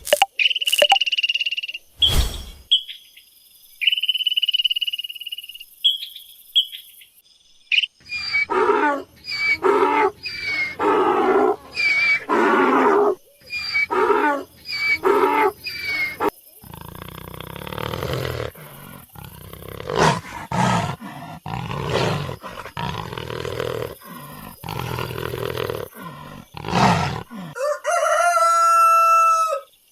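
A series of different animal calls one after another: high, thin steady chirps, then pitched calls repeated about once a second, then rougher, noisier calls, and about two seconds before the end a rooster begins to crow.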